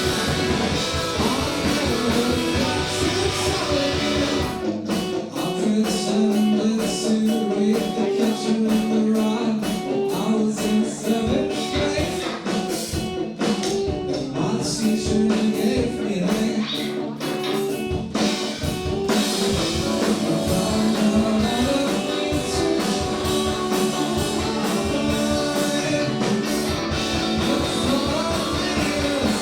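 Live indie rock band playing, with electric guitar and drum kit. About five seconds in, the bass and drums drop back to a sparser guitar-led passage, and the full band comes back in about two-thirds of the way through.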